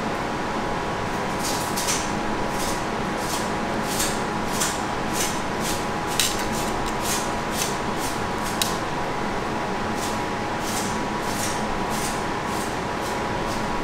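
Close-up chewing of a Crispy Crunch waffle topped with crunchy crumbs: crisp crunches about twice a second, starting about a second in, over a steady background hum.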